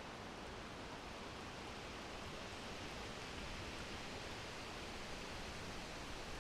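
Steady wind blowing, an even breeze hiss with no gusts or other sounds.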